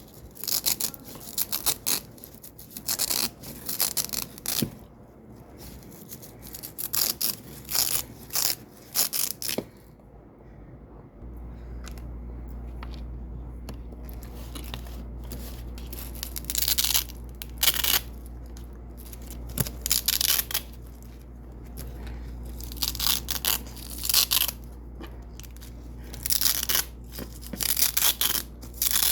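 Double-sided velcro being pulled off white hook strips again and again, each pull a short crackling rip, in clusters with a pause of several seconds in the middle. A low steady hum comes in about eleven seconds in.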